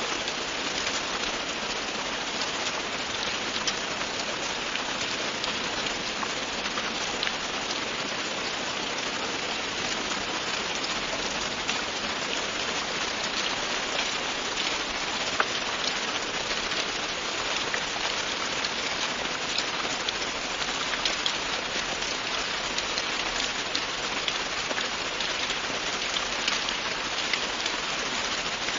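Steady, continuous rain falling, with many individual drops ticking on a surface.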